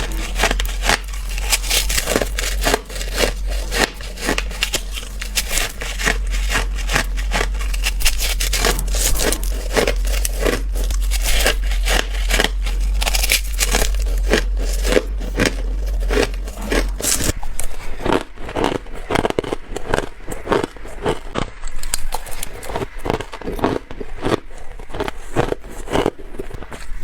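Close-miked biting and crunching of ice and freezer frost, a dense run of crackling crunches. About two-thirds of the way through, a low hum stops and the crunches become sparser and deeper.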